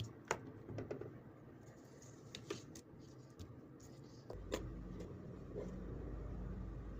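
Faint clicks and taps from handling a supercapacitor spot welder as it is set charging, then a low steady hum that starts about four seconds in.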